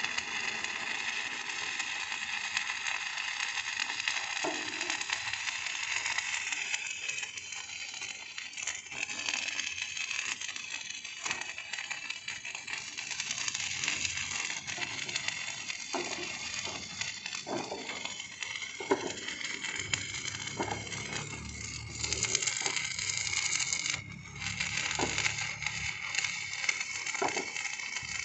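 Electric arc welding: a steady crackling hiss with scattered clicks and knocks, a lower hum joining about halfway through, and a brief break a few seconds before the end.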